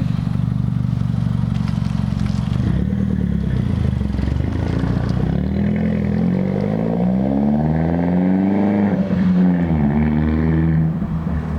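2009 Mini Cooper S (R56) turbocharged four-cylinder, with a resonator-deleted exhaust and Flowmaster Super 10 muffler, driving along the street. Its exhaust note rises and falls in pitch several times, climbs highest about nine seconds in, then drops away.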